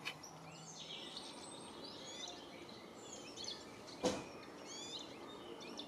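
Outdoor birdsong: several small birds chirping and trilling in quick repeated phrases over a steady background hiss, with a single short thump about four seconds in.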